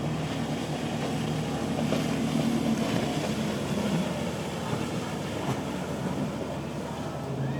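Motorboat engines running as boats pass through the inlet, with wind and water noise, swelling a little about two to four seconds in.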